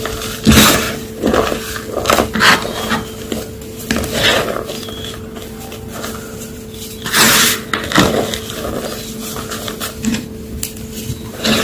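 Homemade gym chalk blocks being crushed, giving irregular crunches and crumbling with short pauses between them.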